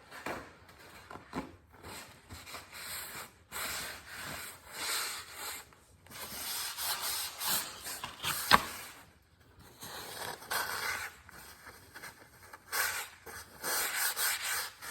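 Hand-work noises during a motorcycle oil change: irregular stretches of rubbing and scraping, with one sharp click about eight and a half seconds in.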